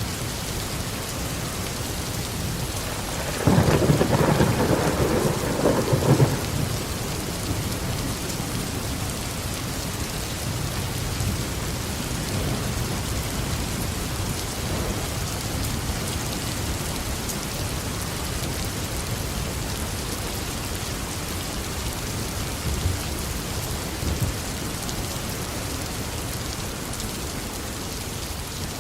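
Steady heavy tropical rain pouring, with a loud clap of thunder rumbling for about three seconds starting about three and a half seconds in.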